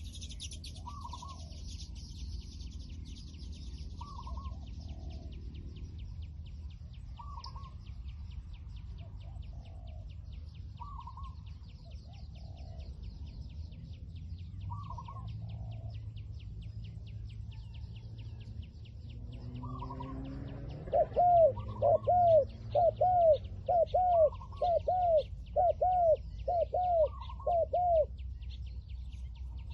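Spotted doves cooing: a soft, more distant coo every three to four seconds, then about two-thirds of the way in a close bird gives a loud run of about nine quick coo notes. A steady insect trill runs underneath.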